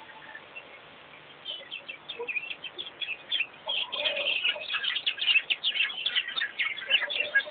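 Small birds chirping and twittering in a busy, irregular chorus, sparse at first and growing louder and denser about halfway through.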